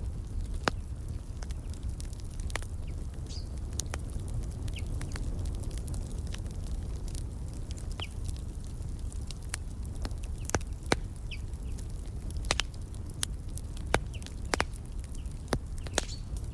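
Wood fire crackling in a fireplace: irregular sharp pops and snaps over a steady low rumble. A few short, high bird chirps come through now and then.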